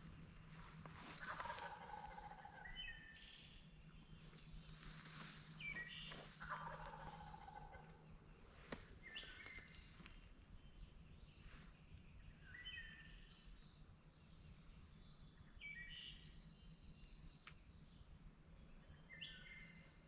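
Wild turkey gobbling faintly, two falling rattled gobbles about a second and six seconds in, with songbirds chirping throughout.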